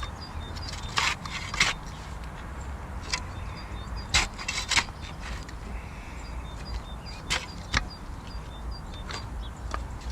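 Irregular sharp wooden knocks, about eight in all, as sawn log rounds cut from fallen branches are handled and set down to lay a path, over a steady low rumble.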